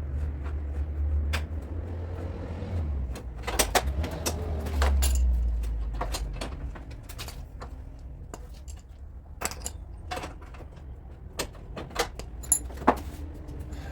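Scattered metallic clinks and knocks from body-repair work on car panels, over a low rumble that fades after about six seconds.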